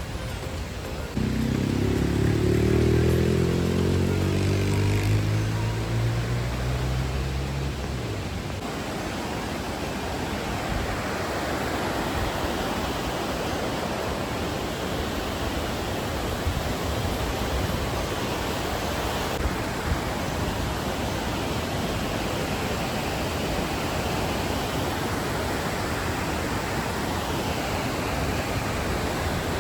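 Large waterfall rushing steadily, a constant wash of falling water. About a second in, a louder low drone with stepping pitch rises over it and fades out after about seven seconds.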